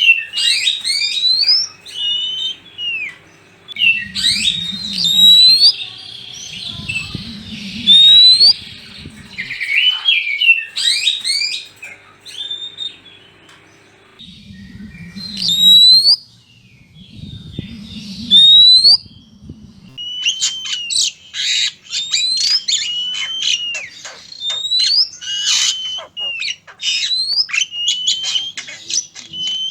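Oriental magpie-robins (kacer), male and female, singing loud whistled phrases full of rising glides. Four low, rough bursts are the loudest moments. From about two-thirds of the way through, the song turns to rapid clicky chattering notes.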